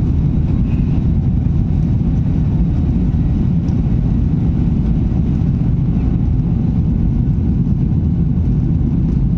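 Boeing 737-800 jet engines running, a loud, steady low rumble with no rise or fall in pitch.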